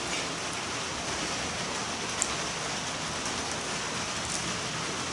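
Steady rain falling, an even hiss with one small click about two seconds in.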